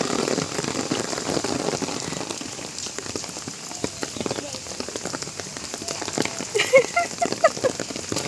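Rain falling steadily on a hard surface: a dense patter of drops, a little louder in the first second or two.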